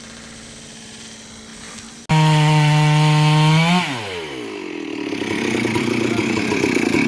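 Chainsaw, at first a quieter steady sound. About two seconds in, it suddenly revs loud and steady at full throttle. After a second and a half the pitch falls, and it runs on rougher and gradually louder as it cuts into wood.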